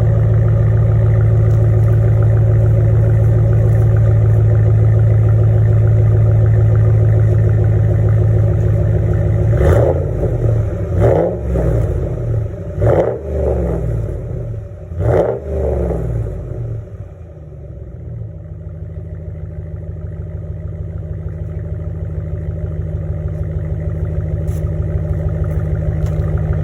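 Ram 1500's 5.7 Hemi V8 with a Y-pipe exhaust idling while it warms up. About ten seconds in it is revved in four quick blips, then it settles back to a steady idle.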